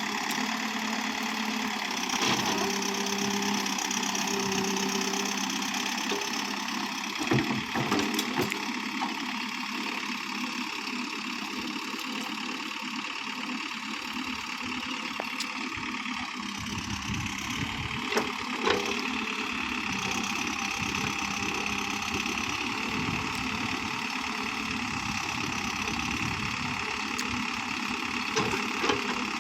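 Diesel engine of a JCB backhoe loader running steadily, with a few metallic knocks about 7 s and 18 s in.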